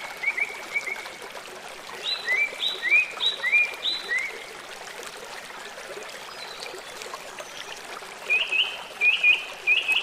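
Birds chirping in quick series of short, clear notes, with a pause in the middle and a faster run near the end, over a steady hiss like running water.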